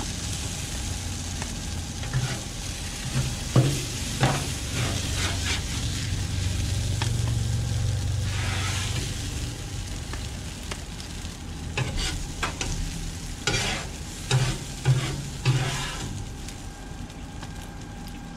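Vegetables sizzling on a hot steel flat-top griddle while a metal spatula scrapes them off the cooking surface, with scattered sharp scrapes and clinks of the spatula in two clusters, near the start and again past the middle.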